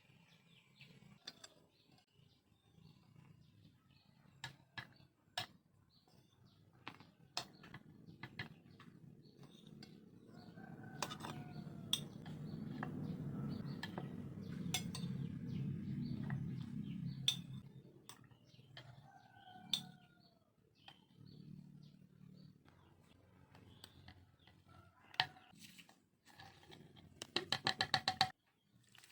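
Kitchen utensils clinking and tapping on dishes while food is prepared, with short bird calls in the background. A low hum swells in the middle, and a fast run of clicks comes near the end.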